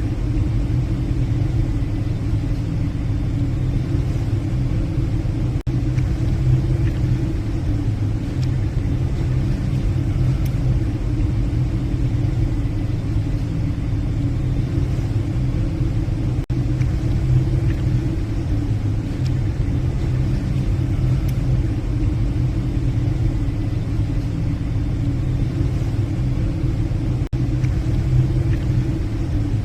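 Passenger ship's engines running with a steady low drone, heard from the bridge.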